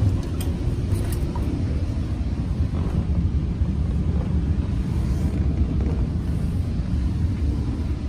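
Steady low rumble of a Bombardier BiLevel commuter coach running at speed, heard from inside the car, with a few faint clicks in the first second or so.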